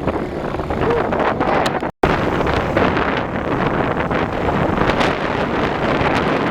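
Wind buffeting the microphone over the steady running noise of a moving passenger train. There is a very brief break in the sound about two seconds in.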